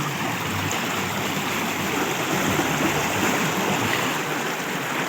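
Stream water running: a steady, even rush of water.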